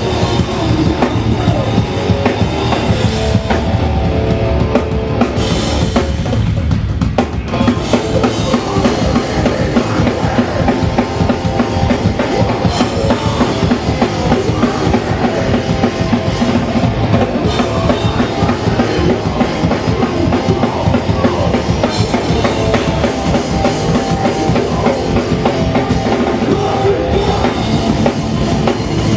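Hardcore punk band playing live at full volume, with a fast, busy drum kit, bass drum and snare, driving the song.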